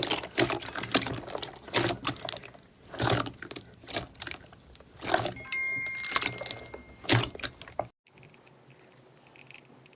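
Slime being squeezed and worked by hand: irregular wet, sticky crackles and squelches, with a short squeak about halfway through. About eight seconds in it cuts off suddenly to a much quieter stretch.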